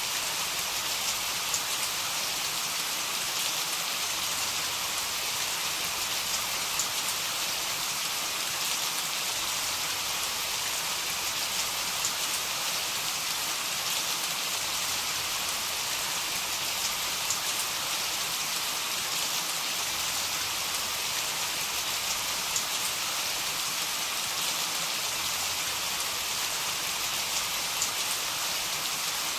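Heavy rain falling steadily: a dense, even hiss with scattered sharp ticks of individual drops.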